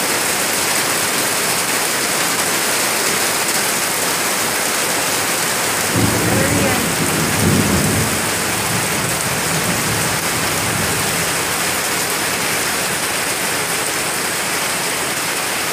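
Rain pouring steadily on a paved yard and garden plants, a dense even hiss. About six seconds in, a low rumble starts suddenly, peaks a second and a half later and fades over the next few seconds.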